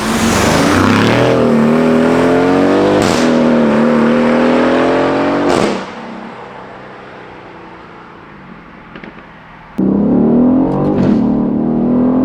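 2020 Aston Martin Vantage's twin-turbo 4.0-litre AMG V8 through a straight-piped Quicksilver exhaust, accelerating hard with its note rising through the gears. There is a sharp crack on the upshift about three seconds in and another as it lifts off a little before halfway. It runs quieter for a few seconds, then accelerates hard again near the end.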